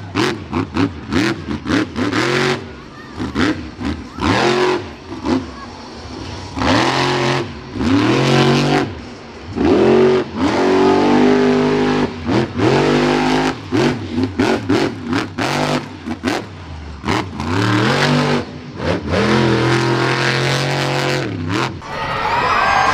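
Monster truck engine revving hard during a freestyle run, the throttle repeatedly blipped and held so the engine note climbs and drops again and again, with sharp cracks as the throttle snaps shut.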